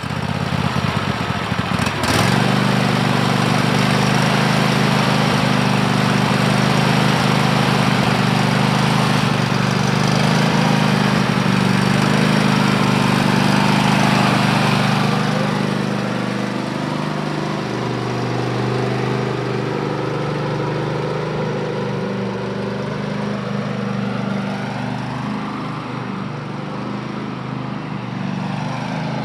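Small engine of a Kohler 7000 Series engine on a Poulan Pro riding mower running steadily, picking up about two seconds in after just starting, and settling a little quieter from about halfway through while being tuned.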